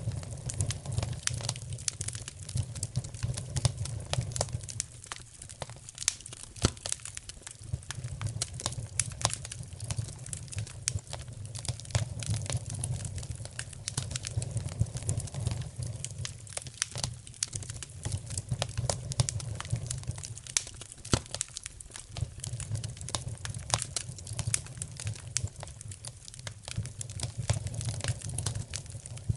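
Wood fire crackling in a fireplace: a constant run of sharp pops and snaps over a low rumble of flames that swells and fades.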